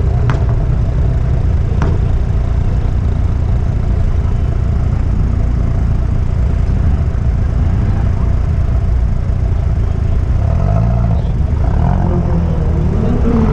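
Car engines running with a heavy, steady low rumble. Two short sharp clicks come in the first two seconds, and near the end an engine's pitch climbs and wavers as it revs.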